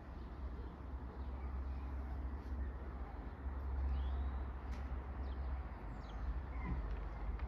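Outdoor nature ambience: a steady low rumble with a few faint bird chirps and short whistles.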